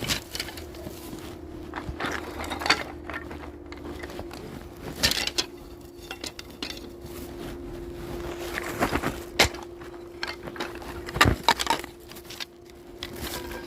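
A woodworking machine motor running with a steady hum, not cutting, while irregular wooden knocks and clacks sound over it, like boards being handled in a joinery shop.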